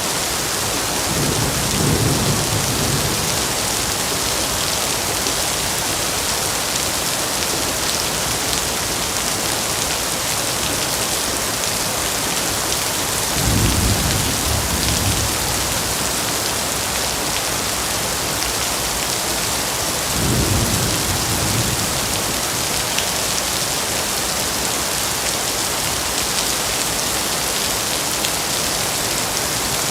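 Steady heavy rain with three low rolls of thunder: one near the start, one about halfway through, and one about two-thirds through.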